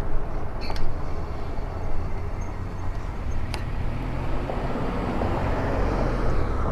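Steady riding noise from an electric bike: wind rushing over the camera microphone with tyre and road noise, and a couple of faint clicks.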